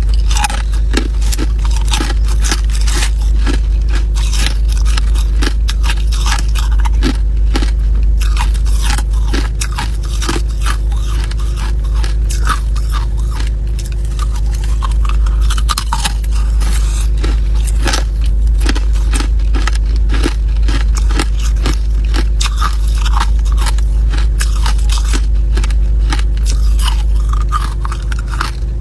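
Ice being bitten and chewed close to the microphone: a dense, unbroken run of sharp crunches and cracks over a steady low hum.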